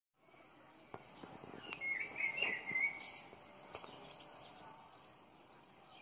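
Birds chirping and warbling in short varied phrases, loudest a couple of seconds in, with a few faint clicks.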